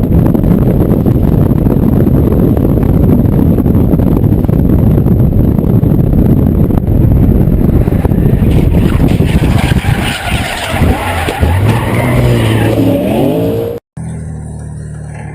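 A car skidding hard under power: a loud, steady rush of tyre and engine noise. From about nine seconds in, the engine revs up and down in rising and falling pitch. Near the end it cuts off abruptly to another car's engine.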